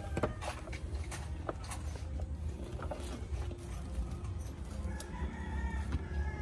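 Chickens clucking and a rooster crowing, its call held briefly near the end, over a steady low hum, with scattered sharp clicks and taps.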